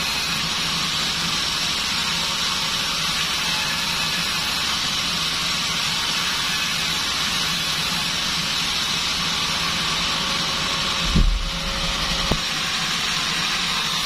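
Band sawmill running steadily with a constant hum and hiss, then a heavy low thud about eleven seconds in and a short knock a second later.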